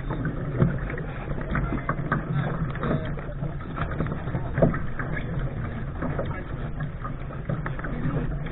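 Lark sailing dinghy under way: water splashing and slapping at the bow over a steady low rumble of wind on the microphone, with irregular knocks from the hull. Two sharper knocks come about half a second in and just past the middle.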